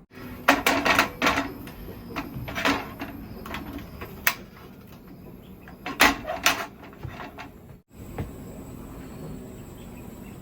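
Several short knocks and clatters in small clusters, like objects being handled and set down, over a steady low background.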